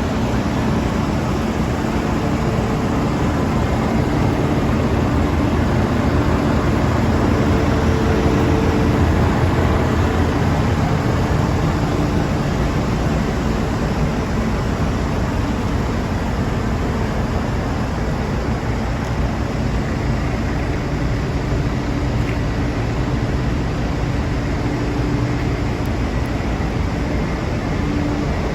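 New Holland CR9.80 combine harvester running steadily, a continuous machine drone with a steady hum.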